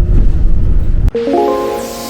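A loud, low vehicle rumble cuts off about a second in. Background music takes over: a quick run of rising notes held as a chord over a swelling hiss.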